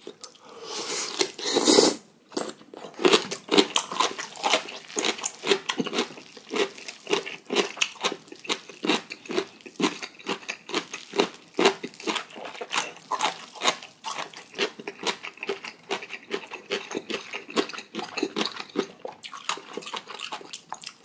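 A man eating thick sauced instant noodles close to the microphone: a dense, irregular run of wet chewing clicks throughout, with a louder burst about two seconds in.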